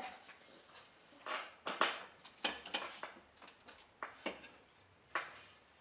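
Irregular clinks, knocks and scrapes of dishes and utensils being handled while a meal is served, loudest about two seconds in.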